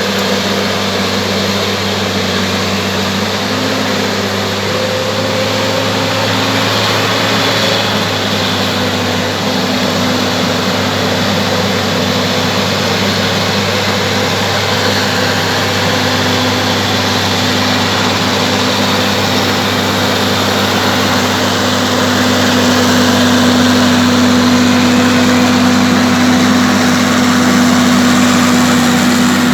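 Bulldozer's diesel engine running steadily, growing somewhat louder a little over two-thirds of the way through.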